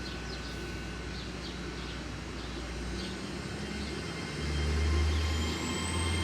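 A train approaching: a low engine rumble that grows louder about four seconds in, with a high whine rising near the end.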